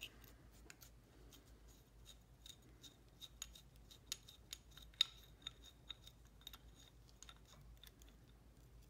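Faint, irregular metallic clicks and ticks of a small wrench tightening the bleeder screw on a motorcycle rear brake caliper, with one sharper click about five seconds in.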